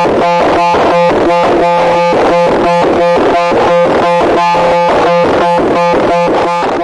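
A loud, harsh electronic noise: a buzzing tone pulsing rapidly and evenly, about five times a second.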